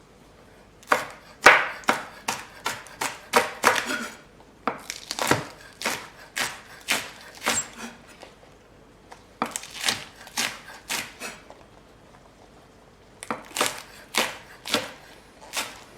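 Kitchen knife chopping spring onions on a cutting board: four runs of quick strokes, about three a second, with short pauses between them.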